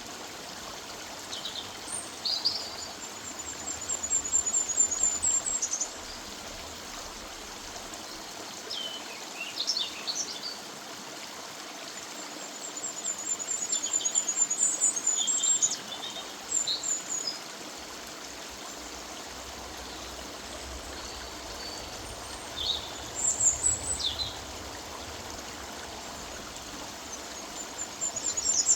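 River water running steadily through woodland, with a songbird singing short phrases over it. The bird gives a high, rapid trill three times, with scattered chirps in between.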